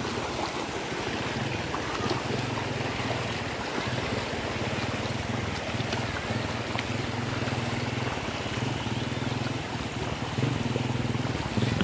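River in flood after heavy rain: steady rushing of fast-moving water, with a low hum that comes and goes underneath.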